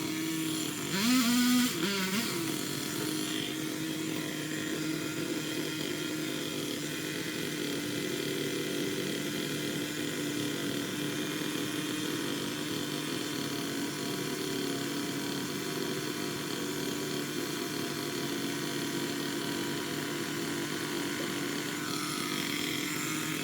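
Small two-stroke engine of a Craftsman power limb cutter (gas pole saw) idling steadily, blipped up briefly about a second in.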